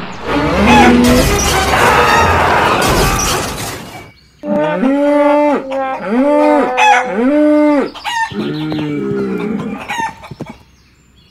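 A loud crashing rumble lasting about four seconds, then chickens squawking and crowing in three long, held calls, followed by fainter clucking.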